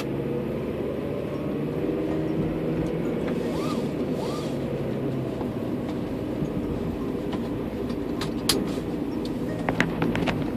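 Car running along a road, heard from inside the cabin: a steady engine and tyre rumble, with a few sharp clicks near the end.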